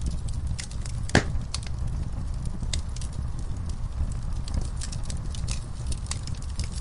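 Wood logs and coals burning in a fire pit: a steady low rumble of the fire with irregular crackles and snaps throughout, and one louder pop about a second in.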